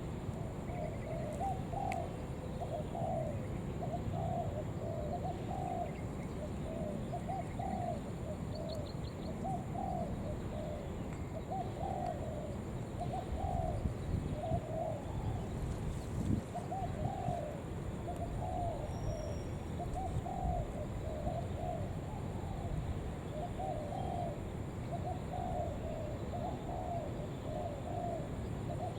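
Spotted dove cooing over and over, short coos following one another about once or twice a second: the rapid urging call of a decoy dove.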